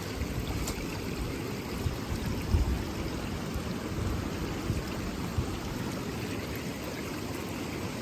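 Storm runoff rushing fast along a gravel road in a steady wash of water, with a few low bumps, the loudest about two and a half seconds in.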